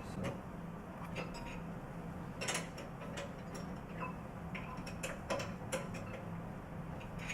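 A wrench working the lock nut on a control valve actuator's stem, tightening it down against the diaphragm plate: irregular metallic clicks and ticks, several seconds apart.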